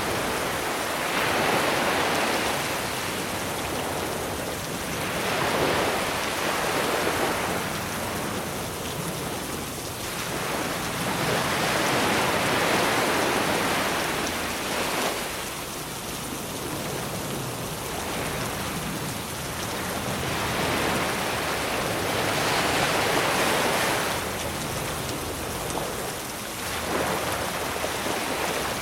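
Sea waves washing onto a beach in swells that rise and fall every few seconds, under a steady hiss of rain.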